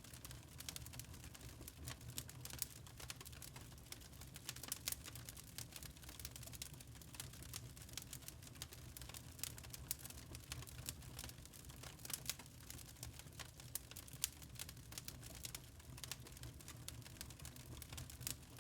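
Log fire in a fireplace crackling: dense, irregular sharp pops and snaps of burning wood over a low, steady rumble.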